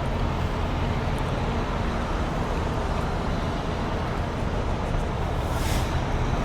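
Heavy truck engines idling steadily, a low hum with traffic noise around it, and a brief hiss about five and a half seconds in.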